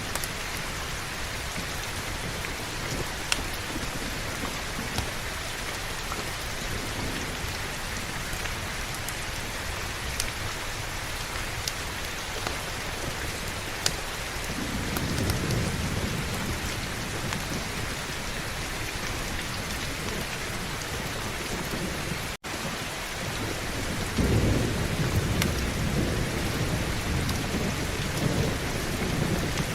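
Heavy steady rain with low rolling thunder rumbling twice, once about halfway through and again near the end, with a few sharp isolated pops over the rain.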